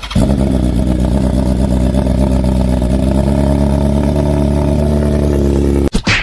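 Suzuki Smash 115 single-cylinder motorcycle engine running loud through an SC Project Big Black Canister aftermarket exhaust, held at a steady, unchanging pitch. The sound starts abruptly and cuts off suddenly near the end.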